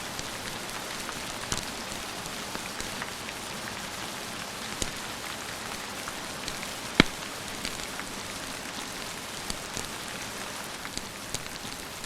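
Steady rain hissing, with scattered sharp clicks and pops through it and one louder snap about seven seconds in.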